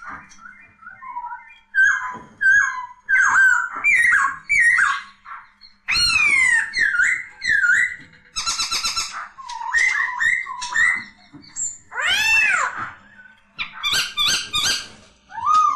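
Poksay (Garrulax laughingthrush) singing a loud, varied song of whistled, down-slurred notes, with a fast rattling series of notes about eight seconds in and a few big arching notes about twelve seconds in.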